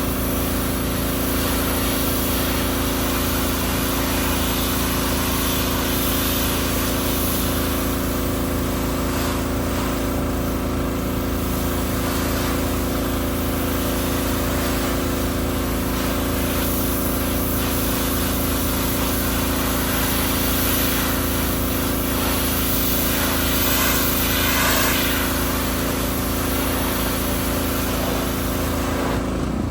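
Pressure washer's small petrol engine running steadily, with the hiss of water spraying from the wand.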